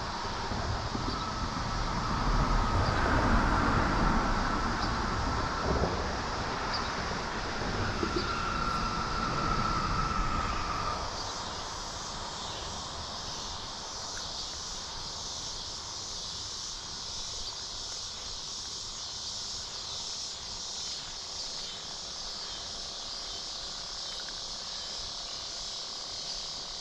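A steady high chorus of insects such as crickets, with a louder low rumble and a steady whine over it for about the first eleven seconds, which then fade out.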